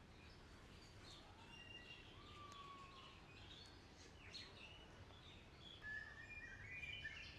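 Faint birdsong: several birds chirping and whistling here and there, with a short whistled note a couple of seconds in and a cluster of chirps near the end, over a low steady background hiss.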